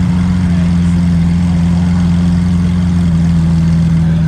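Engine idling steadily, a constant low drone that holds one pitch.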